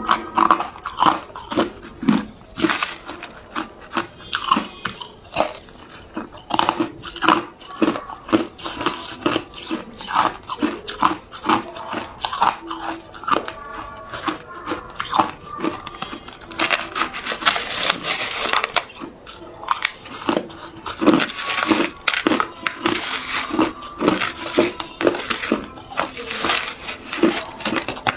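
Hard ice cubes being bitten and chewed close to the microphone: a run of sharp, irregular crunches, several a second, with a denser stretch of grinding crunches a little past the middle.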